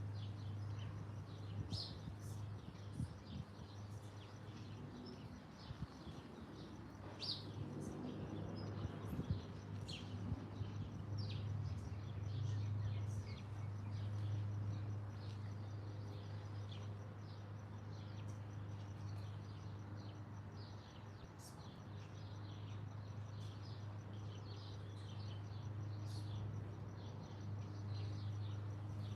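Small birds chirping in many short, high calls, over a steady low hum.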